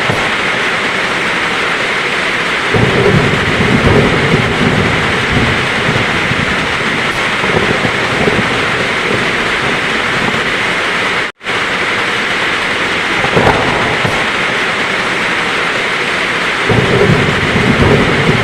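Heavy rain pouring steadily with a thunderstorm: thunder rumbles in low about three seconds in and again near the end. About two-thirds through, the sound drops out for a split second.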